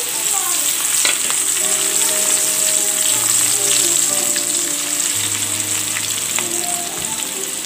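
Crushed garlic and curry leaves frying in hot oil: a steady sizzling hiss with many small crackling pops throughout.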